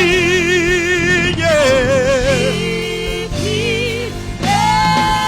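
Gospel praise-and-worship song: a voice sings long, held notes with vibrato over steady sustained instrumental chords.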